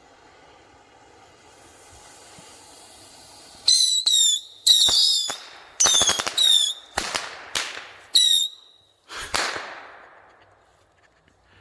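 A volley of bottle rockets going off in quick succession: a steady hiss, then from a few seconds in about a dozen loud sharp bangs over some six seconds, many with high whistles that drop in pitch. Really loud, then fading out near the end.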